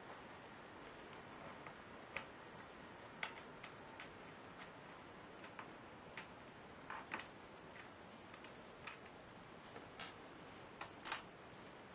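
Scattered light clicks and taps from handling the Lenovo Y570 laptop, irregular at about one or two a second, over a steady faint hiss.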